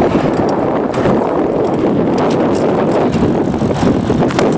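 Steady rush of wind and road noise while riding a bicycle, with wind buffeting the microphone.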